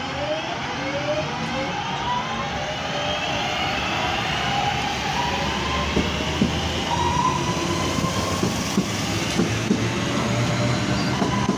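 A pair of Class 323 electric multiple units pulling away under power. The traction motors give a whine that rises in pitch as the train gathers speed, over a steady rumble, with a few knocks from the wheels passing over rail joints in the second half.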